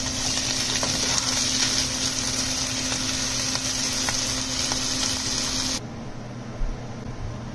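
Beef and vegetable stir-fry sizzling in a wok, with a few faint clicks. The sizzle cuts off suddenly near the end, leaving a low steady hum.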